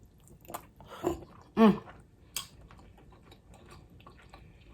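Close-miked chewing and mouth sounds of someone eating buttery king crab meat: scattered wet clicks and smacks, with a short vocal sound about a second and a half in.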